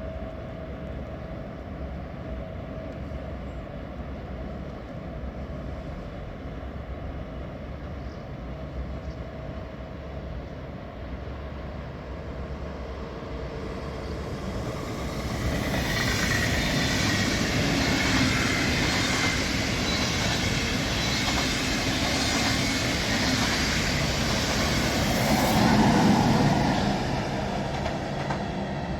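A train approaching and passing on the line: a quiet rumble builds from about halfway through into loud rolling noise with a thin high ringing from the rails. It is loudest a few seconds before the end, then starts to fade.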